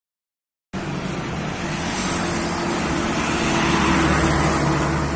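Suzuki Carry 1.0 pickup's engine running as it drives, with road noise. The sound cuts in abruptly just under a second in and grows a little louder towards the middle.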